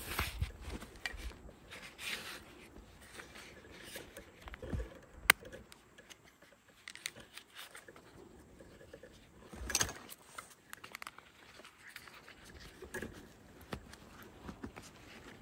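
Irregular rustling and scraping handling noises, with one sharp click about five seconds in.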